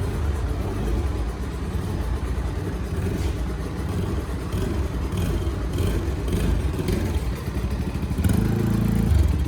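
Small engine of a youth off-road machine running steadily with a fast, even beat, getting louder about eight seconds in.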